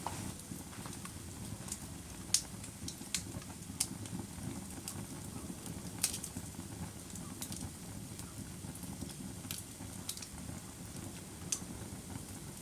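Wood fire crackling: sharp pops at irregular intervals over a low, steady rumble of burning, the loudest pops about two and a half and six seconds in.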